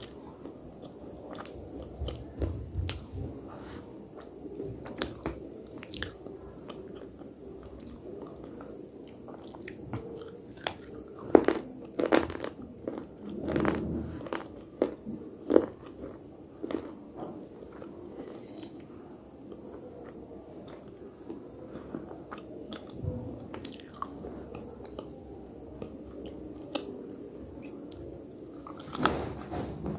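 Close-up biting and chewing of slate: irregular sharp crunches with a soft chewing rumble between them, coming thickest and loudest around the middle.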